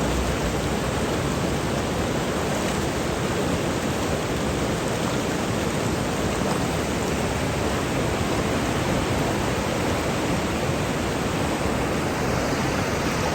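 A river in flood rushing past close by, a steady, loud, even rush of water.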